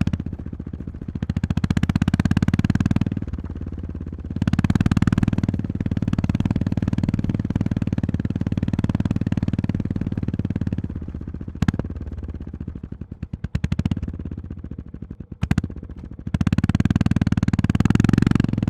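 Honda GB350's air-cooled single-cylinder engine under way with even, close-spaced firing pulses. The throttle is opened up in three spells and rolled off between them, with a few sharp knocks in the quieter middle stretch.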